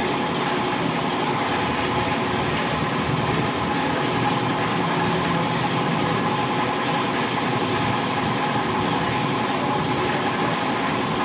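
Steady engine and road noise of a moving vehicle, loud and unbroken.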